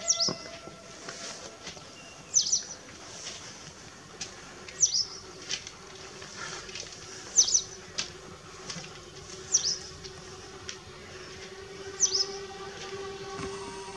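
A small bird repeats a short, high, falling chirp about every two and a half seconds. Beneath it, the approaching diesel railbus gives a faint steady hum that grows toward the end.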